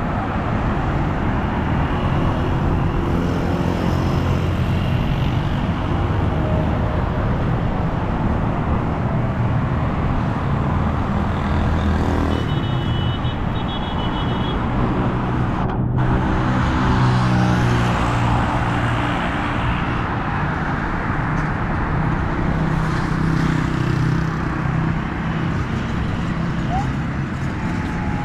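Steady city road traffic: car and truck engines running and tyres passing on a wet road. A brief run of high beeps about halfway through, and a momentary dropout of the sound just after.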